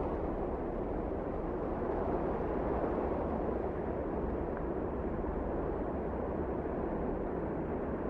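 Steady, low wind noise of a snowstorm, a deep even rushing without gusts or other sounds.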